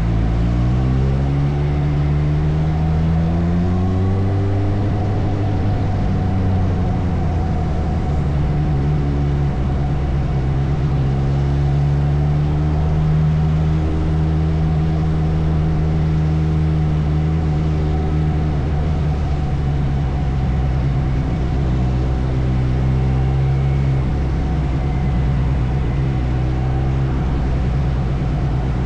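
Suzuki motorcycle engine running under way. Its pitch rises as it accelerates over the first few seconds, then holds, eases off and picks up again several times, over a steady low drone.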